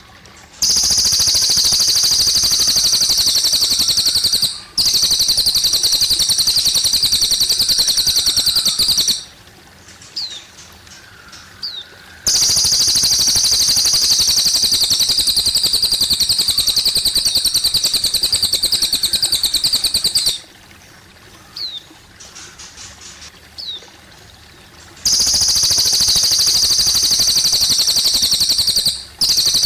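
Cililin bird singing: four long, loud, very fast high-pitched trills, each lasting several seconds. Short single chirps fall in the gaps between them, over the faint trickle of running water.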